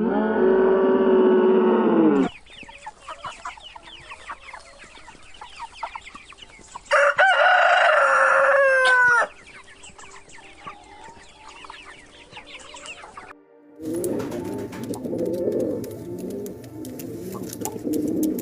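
A drawn-out pitched animal call ends about two seconds in. Then chickens cluck and a rooster crows once in the middle. Near the end, pigeons start cooing.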